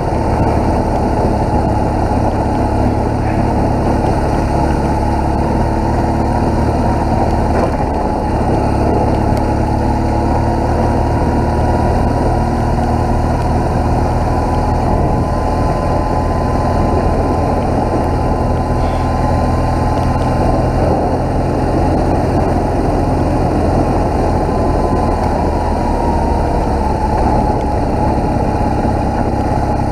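BMW R1200GS motorcycle's flat-twin engine running at a steady, even pace while the bike rides along, with road and wind noise.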